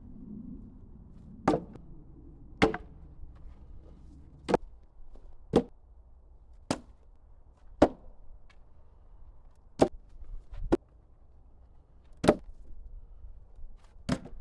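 An axe chopping firewood: about ten sharp strikes into wood, roughly one a second, with irregular gaps.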